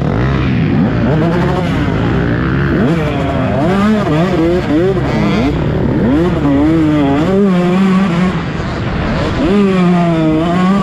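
Several motocross bikes racing, their engines revving up and dropping back over and over as they shift gears and take corners, the revs of different bikes overlapping.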